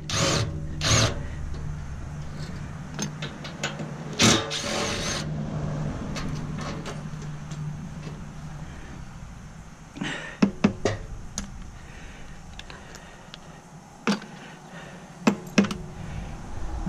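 A power drill or driver running in short bursts over a steady low hum while taking screws out of the stainless steamer's casing. In the second half come several sharp metal clanks and knocks as a heavy stainless steel panel is handled.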